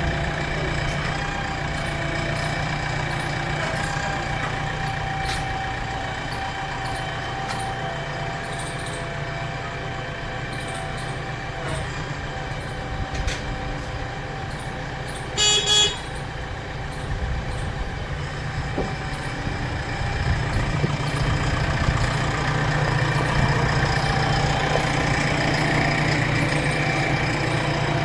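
A vehicle engine running steadily, with two short horn toots about halfway through. The engine gets louder over the last third.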